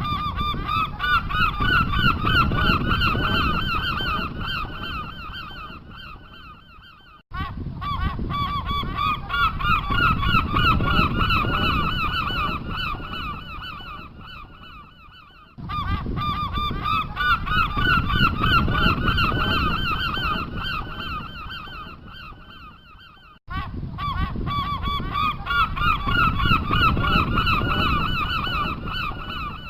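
A flock of birds giving rapid, repeated calls over a low rumble. It comes in stretches of about eight seconds that start abruptly and fade out, repeated four times.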